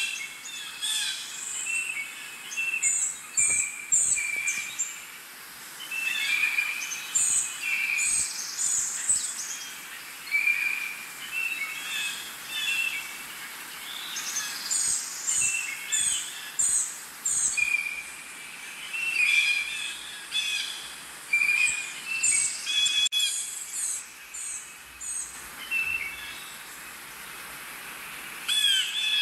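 Birds calling and chirping: many short calls, some high and thin, repeating every second or so throughout.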